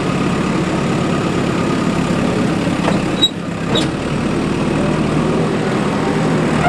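Heavy diesel engine running steadily, with a short break and a click about three seconds in.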